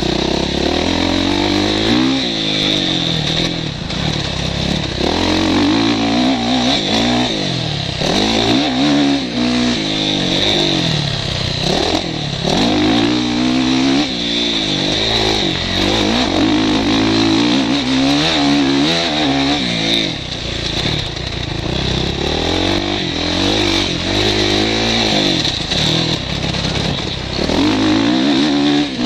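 Motocross bike engine heard from the rider's helmet, revving up and dropping back over and over as the bike accelerates, shifts and slows through the course, over a steady high hiss.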